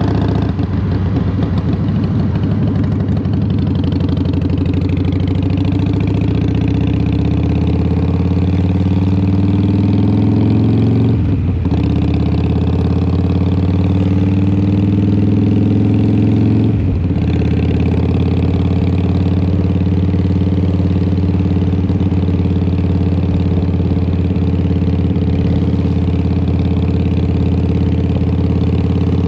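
Harley-Davidson Fat Boy's Twin Cam 88 V-twin, with Vance & Hines exhaust, pulling up through the gears. The engine note rises, drops for a shift about eleven seconds in, rises again, shifts once more at about seventeen seconds, then settles into a steady cruise.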